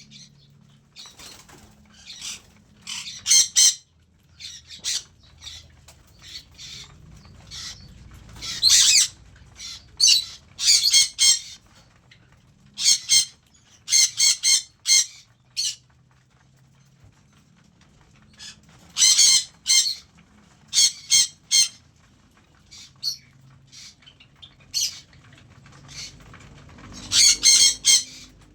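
Cockatiels squawking: short, harsh calls in quick clusters of two to five, repeated every second or two.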